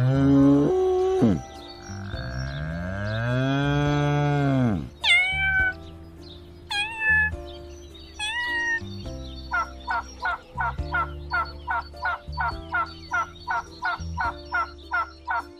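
Cows mooing twice, the second moo long and swelling, then a kitten mewing three times, then a turkey calling in a quick run of short notes, about three a second, over soft background music.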